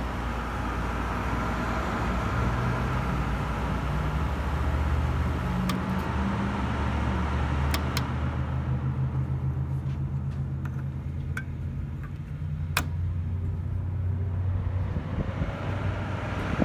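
A refrigeration compressor humming steadily, with fan air rushing that drops away about eight seconds in, and a few light clicks.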